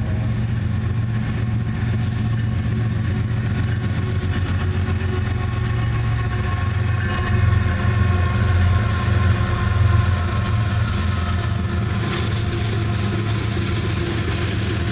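GE ES44AC 'Gevo' diesel-electric locomotives of a coal train running past with a steady low engine rumble, at its loudest about halfway through.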